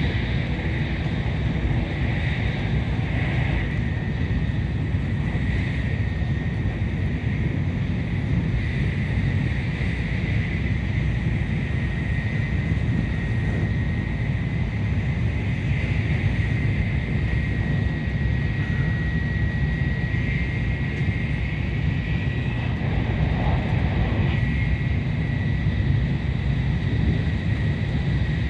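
Tokaido Shinkansen train running at speed: a steady low rumble with a thin, steady high whine over it.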